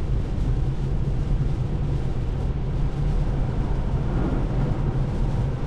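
Steady road and tyre noise heard inside an electric car's cabin as it moves at highway speed, a low even rumble with no engine sound.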